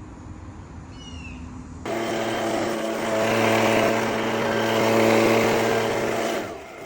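A motor vehicle's engine running close by, starting abruptly about two seconds in, growing louder in the middle and fading near the end, like traffic passing.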